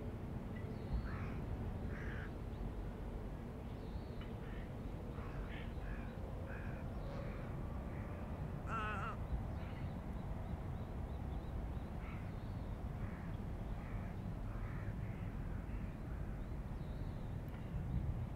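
Riverside ambience: birds calling in short calls scattered throughout, with one louder, clearer call about nine seconds in, over a steady low rumble.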